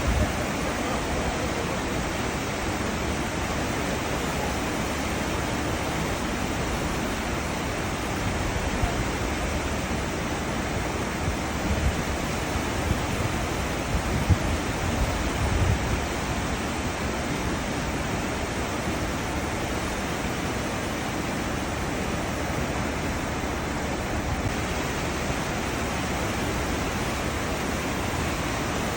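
Churning water of a cruise ship's wake: a steady, even rushing, with a few louder low surges in the middle.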